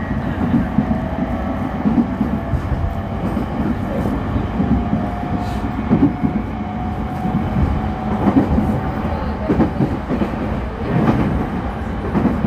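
Refurbished JR E231-series electric commuter train running between stations, heard from inside the car: steady rumble of wheels on rail with a faint motor whine that rises slightly, and a few jolts over rail joints.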